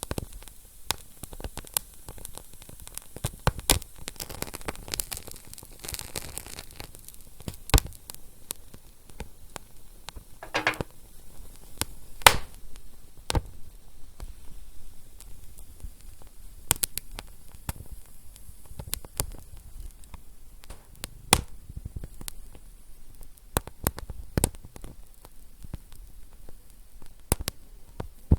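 Wood fire crackling: irregular sharp pops and snaps of burning wood over a soft steady hiss, with a brief hiss about ten seconds in.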